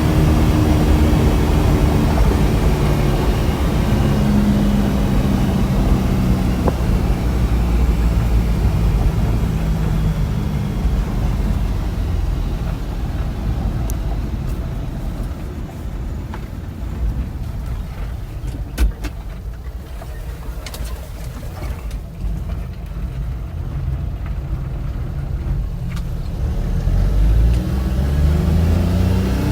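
1990 Suzuki 4x4 mini truck driving with its small engine running steadily. It eases off and runs quieter through the middle stretch, with one short knock. Near the end it rises in pitch as it accelerates.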